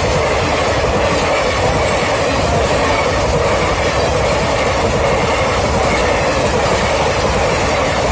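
Indian Railways passenger coaches rolling past at speed close by: a loud, steady rumble of steel wheels on the rails, with a few faint clicks of wheels over rail joints.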